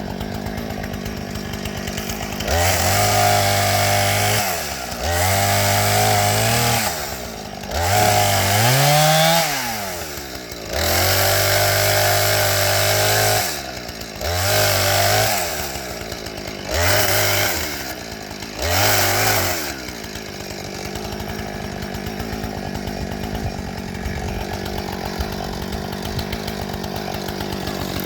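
Two-stroke chainsaw idling, then run up to full throttle in seven bursts of one to two seconds each, one of them rising in pitch, before dropping back to a steady idle.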